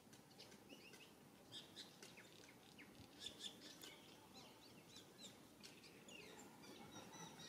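Faint, quick high chirps and tweets of small birds, scattered throughout, with a few short whistled notes near the end, over a low steady outdoor hum.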